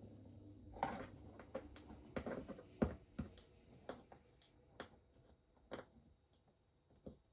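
Scattered light clicks and taps of small tools and parts being handled on a workbench, about ten at uneven intervals, fewer toward the end.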